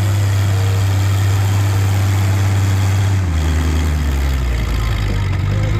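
Antique farm tractor engine running steadily after a pull. About three seconds in, its note drops lower as the engine slows.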